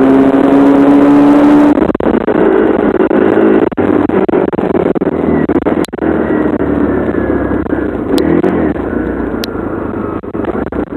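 Dirt bike engine running hard while ridden, held at a steady high pitch for about the first two seconds, then rising and falling with the throttle.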